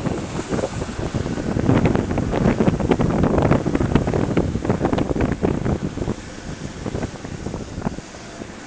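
Land Rover Discovery 2 TD5 on mud-terrain tyres ploughing through wet snow: a rushing churn of slush with many sharp crunching cracks. It swells about two seconds in and dies away over the last couple of seconds.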